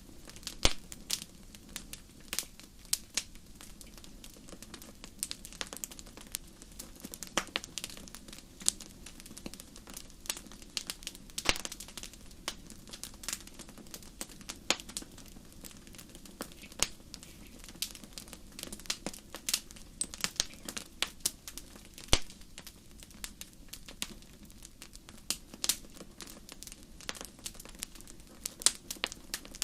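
Wood fire crackling in a fireplace: irregular sharp pops and snaps scattered over a low steady hiss of burning, a few pops much louder than the rest.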